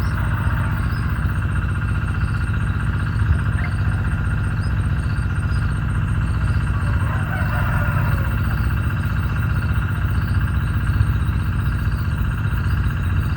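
A steady low motor-like rumble, with faint, quick, high bird chirps repeating over it and a brief burst of chirping about halfway through.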